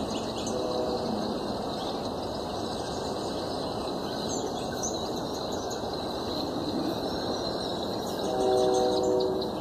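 Small birds chirp and twitter over a steady background hum. A horn with several notes sounds at once, faintly about half a second in, then louder for about a second near the end.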